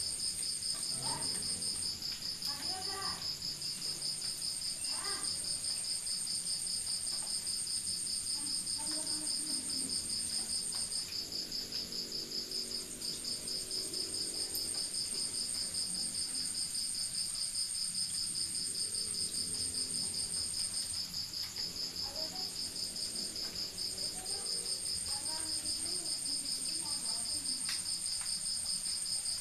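Crickets chirping in a steady, continuous chorus of two high trills, one above the other; the higher trill drops out briefly a few times.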